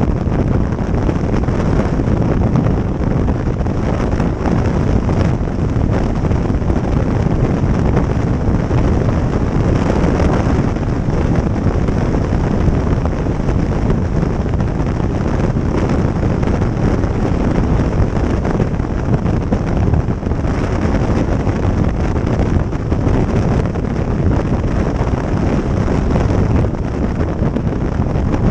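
Steady wind rushing over the microphone of a motorcycle riding at speed, with vehicle and road noise underneath.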